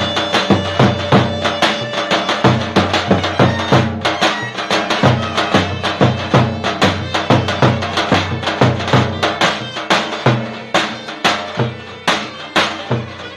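Loud traditional Turkish folk music: a drum keeping a steady, fast beat under a reedy wind instrument's sustained melody.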